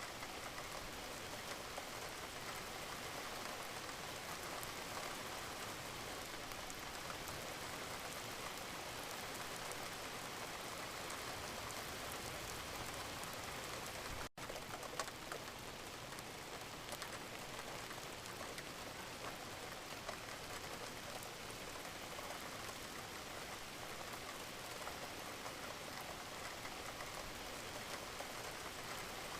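Gentle rain falling steadily, an even hiss of many drops pattering on a surface. About halfway through, the sound cuts out for a split second, then comes back with a small click.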